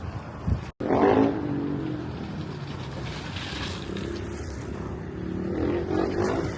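A motor engine running with a steady hum over wind and outdoor background noise, growing louder again near the end. The sound cuts out completely for an instant under a second in.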